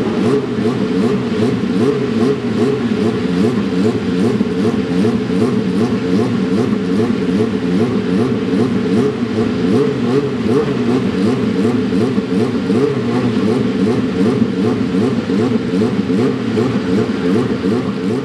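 Several race car engines running hard at once, their overlapping notes rising and falling as they rev and shift.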